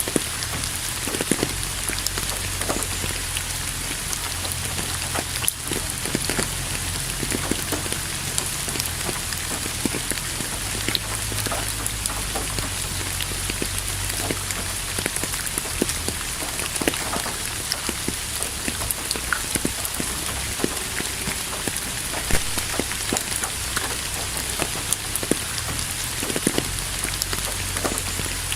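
Steady rain falling, with many distinct drops ticking on a surface over the constant hiss of the downpour.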